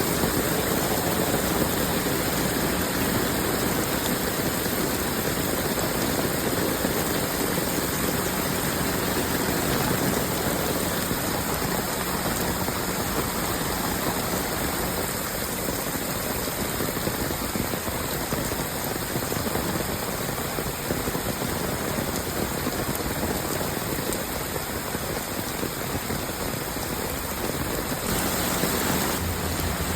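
Heavy rain falling, a steady hiss of water with no break.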